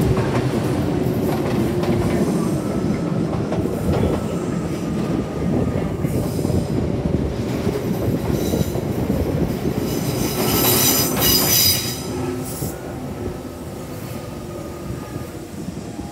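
Kintetsu commuter train heard from inside the car, its wheels rumbling and rattling over the rails. About ten seconds in a high metallic wheel squeal rises and stops near twelve seconds. After that the running noise is quieter as the train slows.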